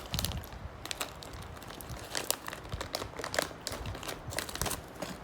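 Irregular crisp crackling and crunching, typical of crispy fried pork skin (mu krachok) being bitten and chewed.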